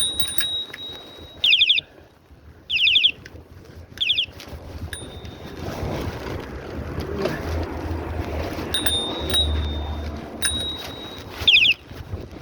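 Bird calls: four loud, short calls, each sliding down in pitch, with a thin steady high whistle heard three times in between, over a low hum.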